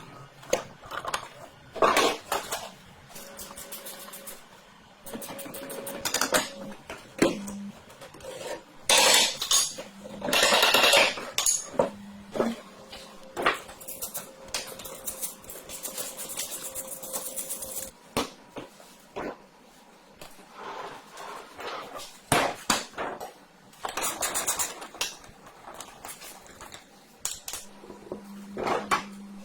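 Metal parts clinking and clattering, with scattered knocks and a few longer scraping stretches, as go-kart parts and hand tools are handled.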